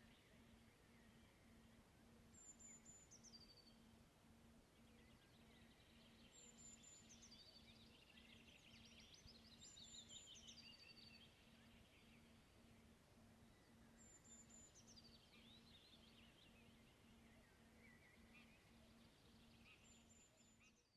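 Faint woodland birdsong: a small bird repeats a short high phrase that steps down in pitch every few seconds, with softer twittering between.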